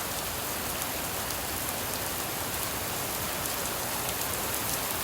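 Steady, heavy rain falling, an even hiss with scattered drop ticks.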